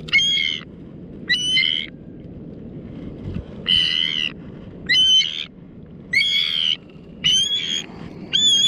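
A bird caught on fishing hooks calls over and over as it struggles against being handled: seven loud, pitched calls, each under a second long, roughly a second apart.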